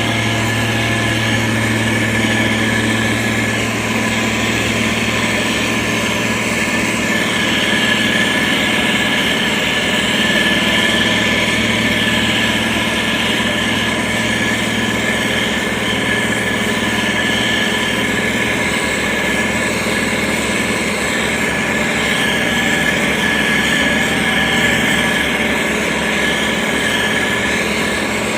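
Diesel engine of heavy road-construction machinery running steadily at an even pitch, with a thin steady high tone above it.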